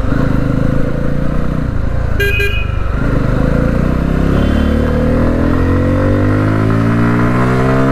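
Bajaj Pulsar F250's single-cylinder engine under way, heard from the rider's seat, with its revs climbing steadily from about three seconds in as it accelerates. A vehicle horn gives a short toot a couple of seconds in.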